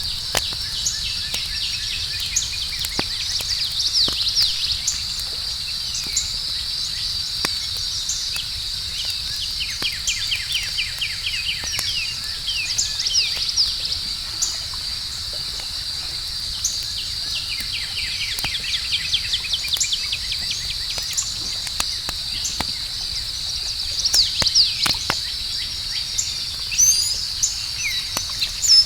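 Steady high-pitched chirring of crickets, with runs of faster chirps and short falling calls now and then. Scattered sharp pops and crackles from a wood campfire are heard throughout.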